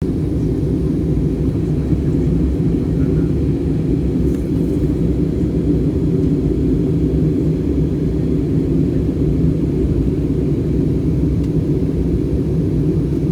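Steady low drone of an airliner in flight heard from inside the passenger cabin: engine and airflow noise with no change in pitch or level.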